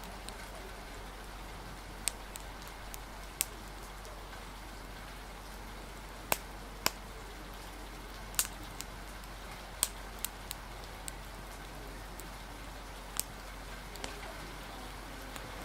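Steady rain hiss with a dozen or so sharp, irregular pops and snaps from a crackling wood fire.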